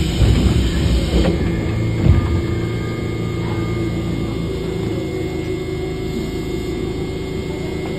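Inside a Tobu 10030 series electric train car: a run of irregular mechanical clunks and knocks for the first two seconds or so, the loudest about two seconds in. It settles into a steady hum with a hiss.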